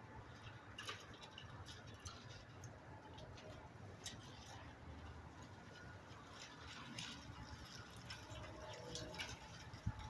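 Faint, irregular small clicks and ticks, a few a second and scattered, over a low steady rumble.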